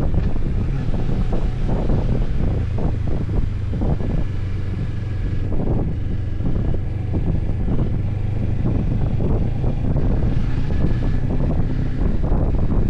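Riding on a motorcycle: wind buffets the microphone in uneven gusts over the steady low drone of the engine at cruising speed.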